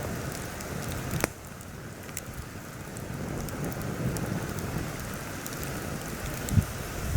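Campfire crackling with scattered pops, under steady wind noise with low gusts buffeting the microphone. A sharp crack about a second in, and a couple of low thumps near the end.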